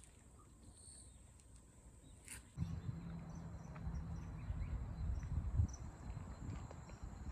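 Insects chirping and buzzing in a high steady drone with short chirps. About two and a half seconds in, a louder low rumble starts abruptly underneath and continues.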